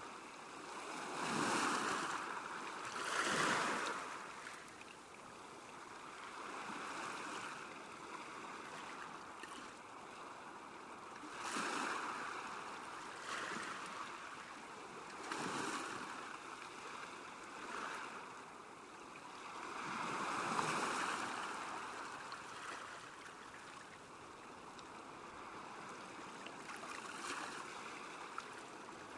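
Small waves lapping on a lake shore: a steady wash of water with irregular swells every few seconds, the biggest about 1.5, 3.5, 11.5, 15.5 and 20.5 seconds in.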